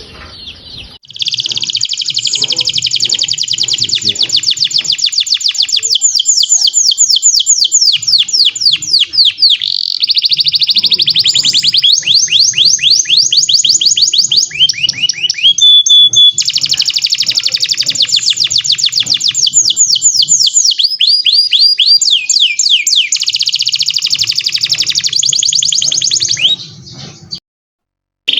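Domestic canary singing a long song of fast trills and rolls, with runs of rapidly repeated notes that sweep downward. The song starts about a second in and breaks off abruptly shortly before the end.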